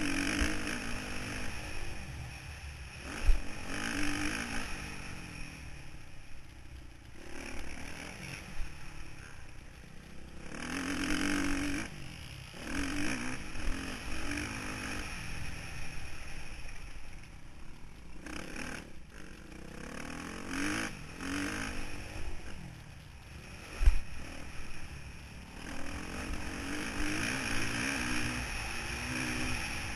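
Motocross bike engine heard onboard, revving up and falling back again and again through the gears and throttle changes, with a rushing noise and clatter over it. Two heavy thumps stand out, one a few seconds in and another past the middle.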